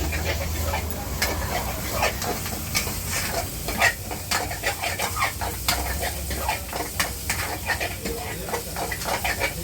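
Food frying and sizzling in a pan at a street food stall while egg tarka is cooked, with a metal spatula striking and scraping the pan in quick, irregular clicks and a low hum beneath.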